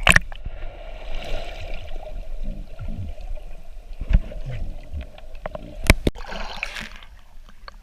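Water sloshing and gurgling around a boat, with a few sharp knocks, the clearest about four and six seconds in.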